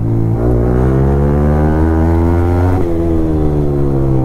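Yamaha R15 V3 motorcycle's single-cylinder engine pulling up through the revs under acceleration, its pitch climbing for about two and a half seconds. The pitch then drops sharply at a gear change and climbs again.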